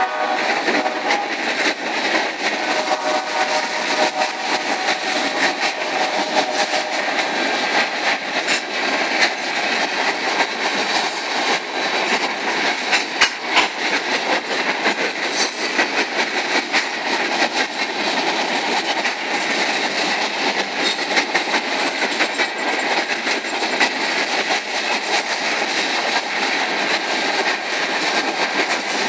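Loaded covered hopper cars of a grain train rolling past, a steady rush and rumble of wheels on rail with frequent clicks and clacks over the rail joints. The locomotive horn cuts off just at the start.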